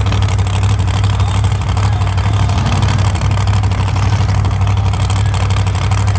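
Truck engines idling with a steady, loud low rumble.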